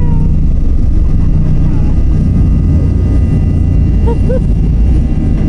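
Jet airliner taking off: a loud, steady low rumble of engines and rushing air, heard from inside the passenger cabin.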